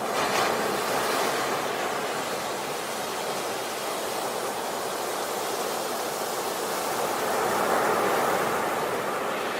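Sea waves breaking on a beach: a steady rush of surf that swells twice, once just after the start and again near the end as another wave comes in.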